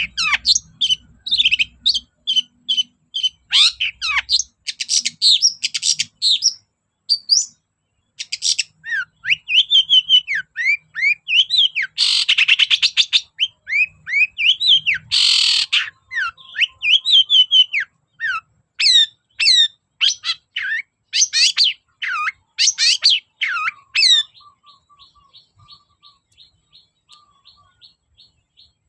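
Long-tailed shrike (cendet) singing a loud, busy song of quick chirps, sweeping whistled notes and trills, broken by two short harsh rasping calls near the middle. After about 24 seconds it drops to a quieter, fast run of small twittering notes.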